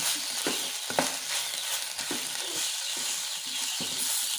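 Drumstick leaves with onion and chilli sizzling in oil in a pan while a spoon stirs and scrapes through them, with short scraping strokes every half second or so.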